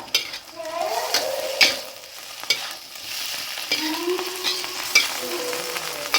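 Fried noodles being stir-fried in a hot pan, sizzling, with the cooking utensil knocking and scraping against the pan several times.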